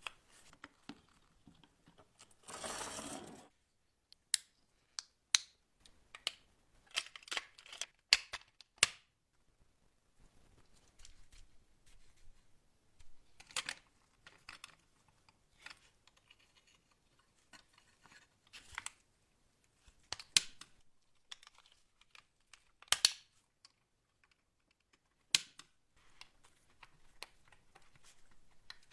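Scattered sharp clicks and taps of small parts being handled, with a short scraping rustle about three seconds in.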